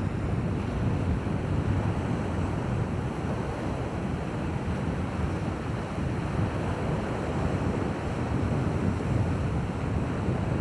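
Steady coastal wind buffeting the microphone over the wash of shoreline surf: an even noise, heaviest in the low end, with no distinct events.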